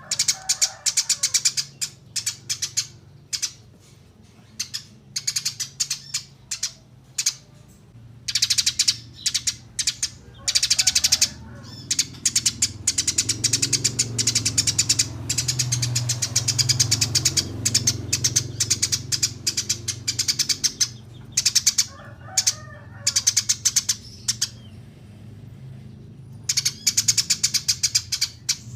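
Small songbird singing in bursts of rapid, high-pitched chirping trills with short pauses between them, over a low background rumble in the middle stretch.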